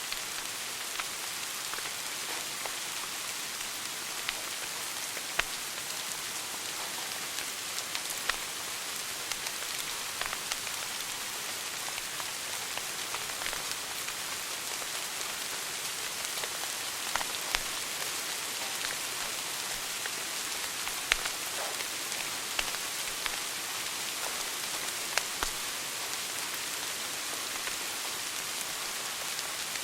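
Wood fire burning in a fireplace: a steady hiss with irregular sharp crackles and pops a second or a few seconds apart.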